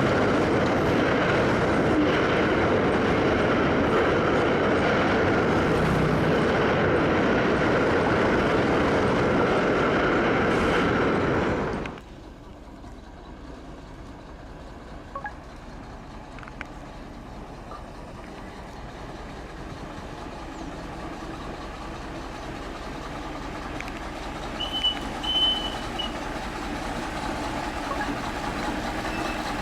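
Freight train wagons rolling past close by, a loud steady rumble of wheels on rail that stops abruptly about 12 seconds in. A much quieter rumble then builds slowly, with a few faint clicks.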